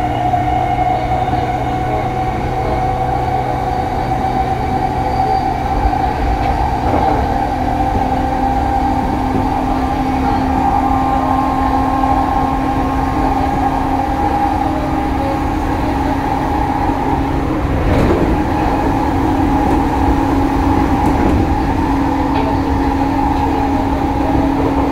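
Running sound of a Joban Line Rapid electric commuter train, heard from inside the passenger car: a steady rumble of wheels on rail with steady whining tones over it, and a short knock about 18 seconds in.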